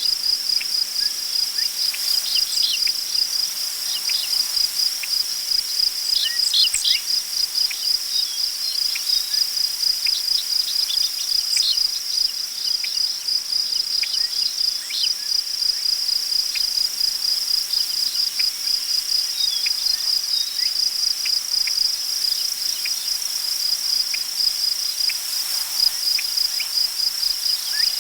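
Crickets chirping in a steady, fast, high-pitched pulse, with a few short bird chirps here and there.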